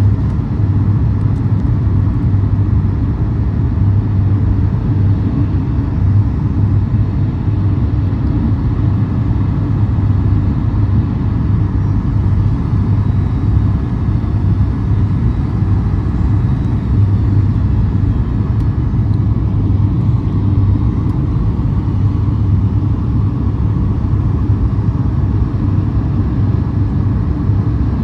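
Steady low rumble of a Boeing 737 MAX cabin: engine and airframe noise heard from a passenger seat.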